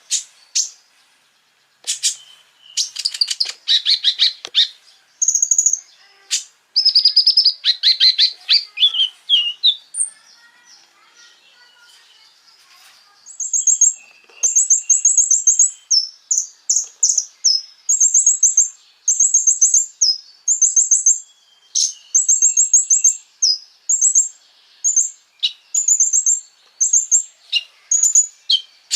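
Konin bird singing: fast, rattling high trills in the first half, then short high chirped phrases repeated about once a second.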